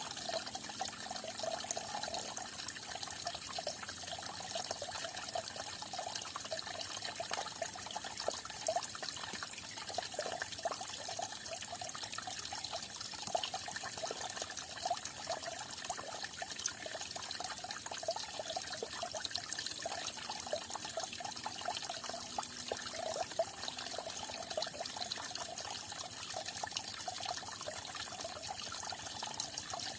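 Falling water splashing and trickling steadily and without a break.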